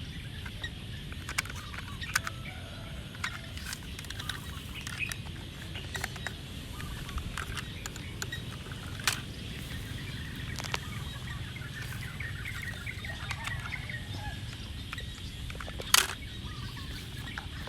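Outdoor ambience with birds calling faintly and a steady low hum, broken by a few light clicks; one sharper click comes near the end.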